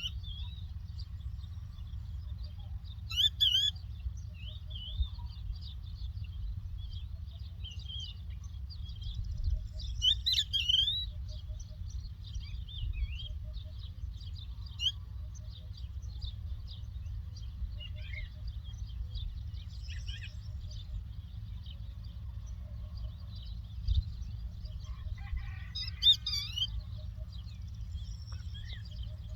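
Larks singing: short twittering chirps and trills scattered throughout, with louder phrases about three seconds in, around ten seconds, and near the end, over a steady low rumble.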